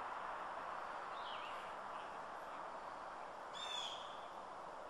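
A bird calling twice, short sweeping chirps, about a second in and again near the end, over a steady outdoor hiss.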